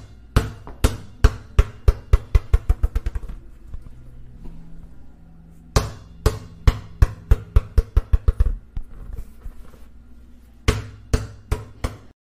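Sharp drum or percussion hits in three runs, each speeding up.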